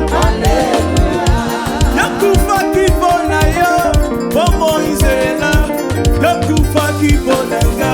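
Live gospel praise-and-worship music: a band with bass and a steady beat of drum hits, with voices singing over it.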